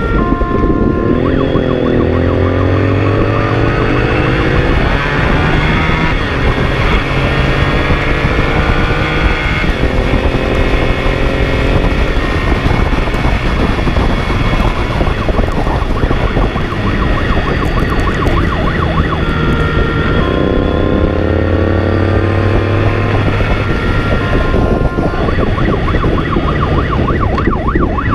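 A pursuing vehicle's engine accelerating hard, its note climbing again and again through the gears, with an emergency siren sounding over it and steady road noise underneath.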